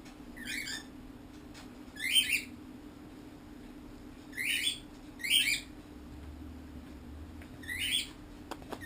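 A pet bird squawking five times, short harsh calls spaced a second or more apart.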